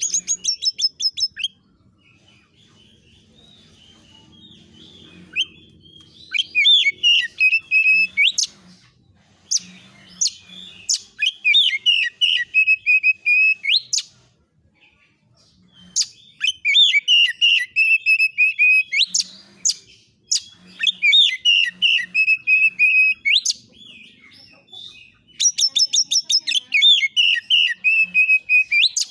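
Oriental magpie-robin (kacer) singing in the fast, agitated 'konslet' style: about six bursts of rapid repeated notes, each a few seconds long, with short pauses between them.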